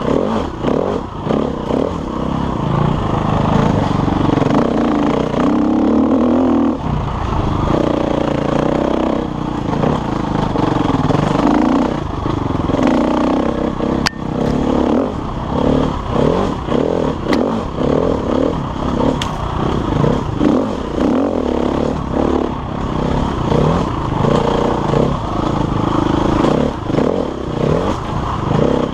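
KTM enduro dirt bike engine revving up and down over and over as the throttle is worked through rough ground, with clattering from the bike and a few sharp clicks about halfway through.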